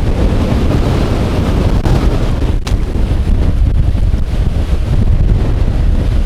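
Strong wind buffeting the microphone: a loud, constant low rumble. There is one sharp click about two and a half seconds in.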